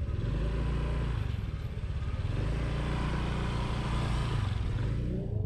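Motorbike engine running on the move, with a hiss of road and wind noise that swells and then fades near the end.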